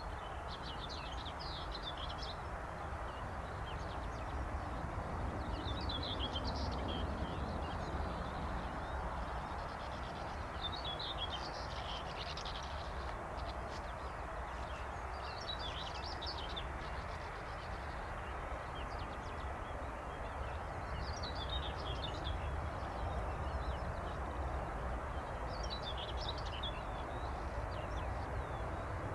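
A songbird singing a short, high phrase roughly every five seconds over a steady low rumble.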